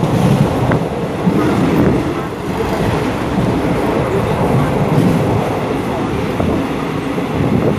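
Steady rumble and rattle of a moving passenger train heard inside the carriage, a loud, even noise with no clear pitch.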